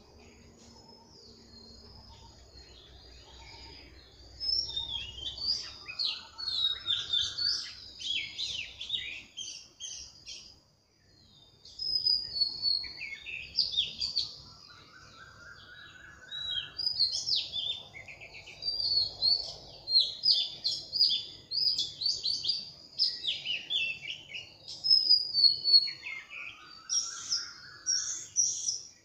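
Birdsong: many small birds chirping and twittering in quick, high calls, with a slower rising call coming back three times.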